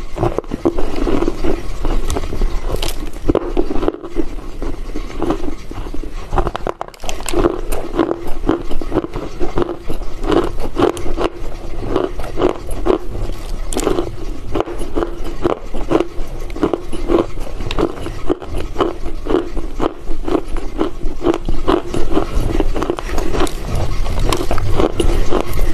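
Close-miked chewing of dried loess clay chunks: a dense, continuous run of crisp crunches and crackles.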